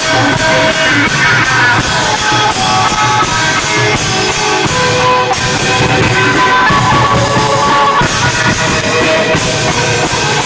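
Isan klong yao (long-drum) band playing live: drums and cymbals keeping a steady beat under a plucked, guitar-like melody.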